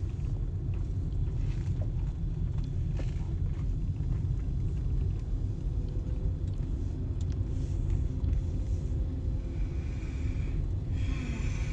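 Steady low rumble of a car being driven, road and engine noise with no change in pace.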